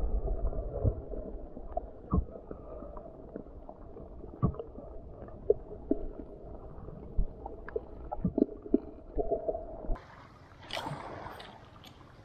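Muffled underwater sound of water moving around a submerged camera, with scattered small knocks and clicks. About ten seconds in, the sound suddenly opens up as the camera comes out of the water, with a brief rush of water noise.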